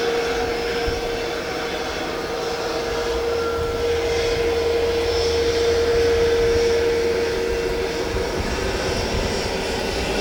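Airliner's engines running with a steady whine, growing louder to about six seconds in and then easing slightly.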